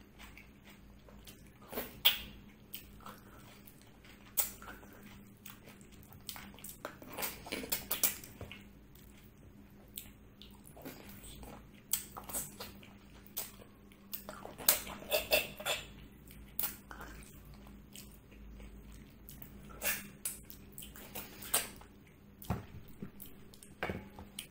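Close-miked eating of goat-trotter curry and rice: wet chewing, smacking and biting in irregular bursts, busiest about a third of the way in and again just past the middle, over a faint steady hum.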